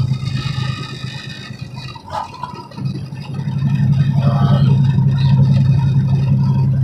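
Semi-truck engine and road noise droning inside the cab while driving, easing off briefly about two seconds in, then coming back stronger and steady.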